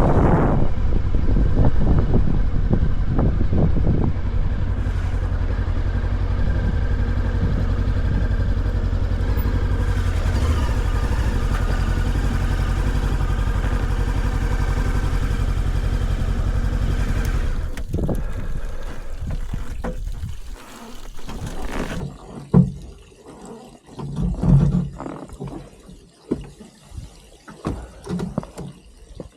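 Voge Valico 525 DSX motorcycle's parallel-twin engine running at a steady speed, fading away after about eighteen seconds. A quieter stretch of scattered knocks and handling thumps follows.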